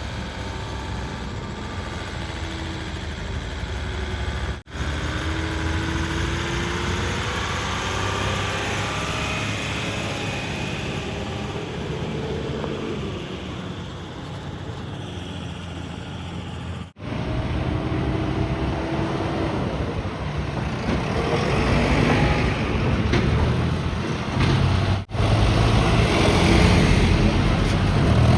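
Heavy diesel vehicle engines, such as a backhoe loader's and tipper trucks', running and revving, in several clips with brief gaps between them. The low engine sound grows louder near the end.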